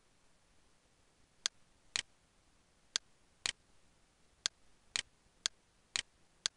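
Computer mouse button clicks, five times in a row, each a sharp press followed half a second later by a softer release click.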